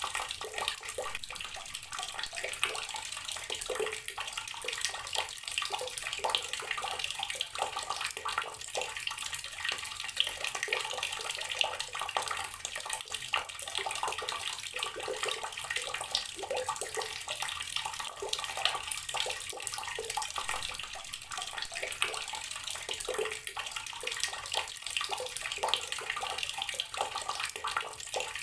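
Water tap running steadily, the stream splashing into a basin or tub with a constant hiss and patter.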